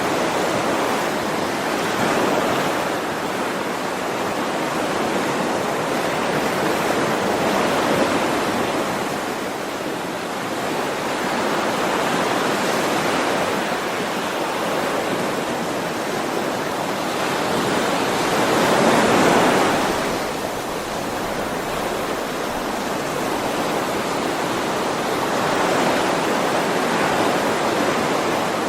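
Ocean waves washing onto a shore in a continuous rush of surf that swells and eases every few seconds, with the largest wave about two-thirds of the way through.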